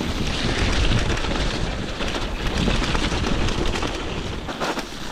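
Landslide debris moving: a continuous heavy rumble with many small knocks of tumbling rock.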